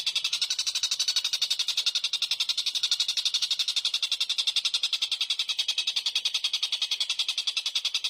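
A small bird's rapid chattering call: evenly repeated high, sharp notes at about ten a second, kept up without a break.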